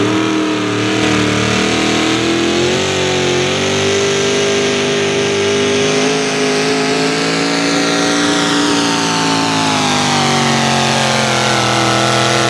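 A National Sportsman 4x4 pulling truck's 650 cubic inch naturally aspirated wedge-head V8 running at full throttle under load during a pull. It holds a high, steady note that sags slightly lower in the last few seconds.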